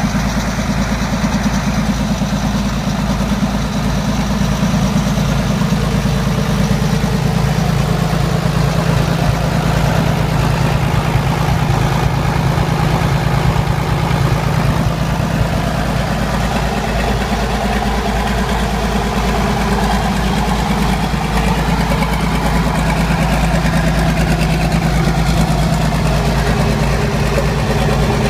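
Rebuilt Ford 2725E marine diesel engine idling steadily on its first run after the rebuild.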